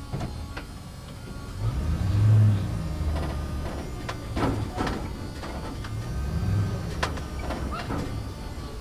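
A low engine running, swelling louder about two seconds in, with several sharp clanks and rattles in the second half.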